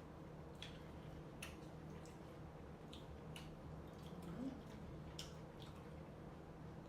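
Faint, wet mouth clicks and smacks of a person chewing fruit close to the microphone, coming at irregular intervals over a low steady hum.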